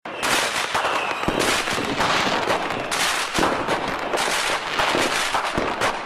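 Consumer firework cakes firing: dense crackling with rapid sharp reports, the texture changing abruptly every second or so.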